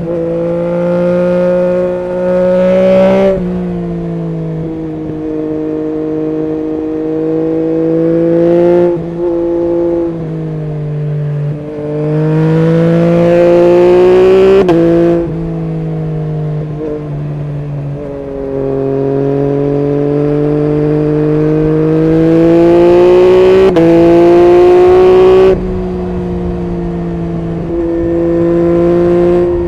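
Yamaha MT-09 SP's three-cylinder engine through an Akrapovic full exhaust system, pulling hard three times with the pitch climbing and each pull ending in a sudden drop, the longest near the end, and running steadily at part throttle in between.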